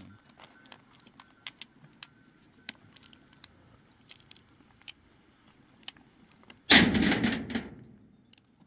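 Scattered small clicks and taps of stones, then one loud crash of stones dropping or being thrown down about a second and a half before the end, lasting about a second before it fades.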